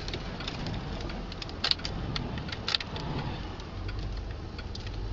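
Car interior noise: a steady low rumble with several sharp clicks scattered through it.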